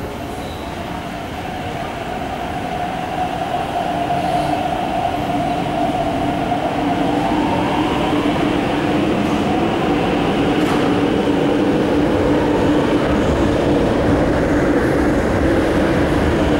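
MTR C-Train electric multiple unit pulling away from a station, its motors giving a steady whine that creeps up in pitch as the train speeds up, over the growing rumble of the train running on the track.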